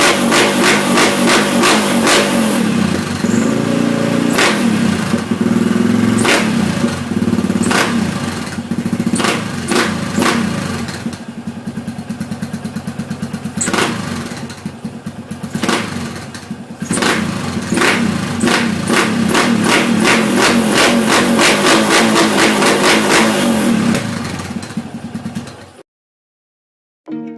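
Yamaha SR single-cylinder four-stroke motorcycle engine running through its muffler, revved up and down repeatedly with throttle blips. The sound cuts off suddenly near the end.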